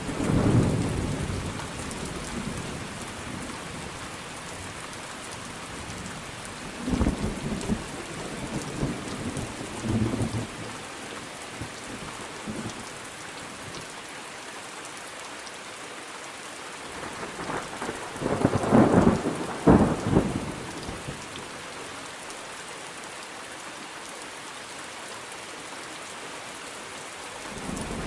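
Thunderstorm: steady rain falling, with rolls of thunder rumbling in and out, a few at the start, several around a third of the way in, and the loudest, sharpest peals about two-thirds of the way through.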